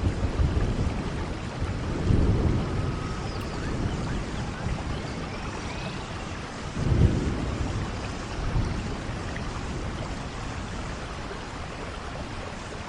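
Steady rainfall with low rumbles of thunder that swell about two seconds in and again, loudest, about seven seconds in.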